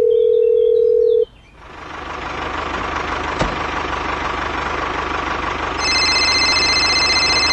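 A steady single-pitched electronic beep that cuts off about a second in, then after a short gap an engine-like running noise fades in and holds steady; near the end a chord of high, steady electronic tones joins it.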